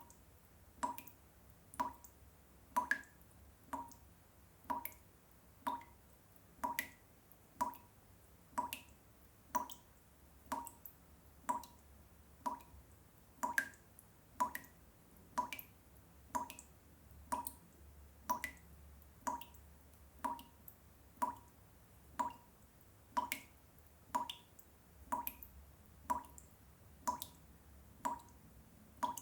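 Water drops falling one at a time, about one a second, each a short plink in a steady, even rhythm, over a faint low hum.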